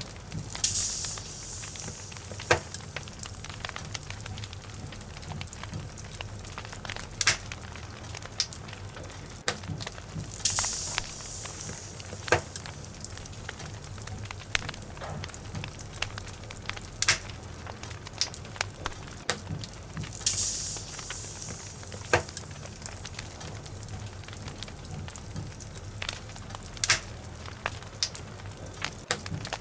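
Wood fire burning in a fireplace, crackling with many sharp pops and snaps, some loud, and a short hiss about every ten seconds, over a steady low rumble.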